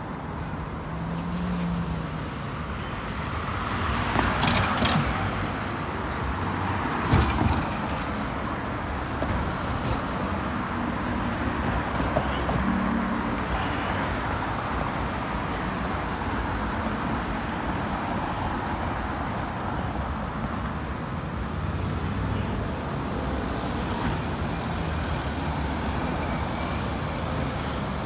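Road traffic driving past steadily, buses, cars and trucks. Louder vehicles pass about four and seven seconds in.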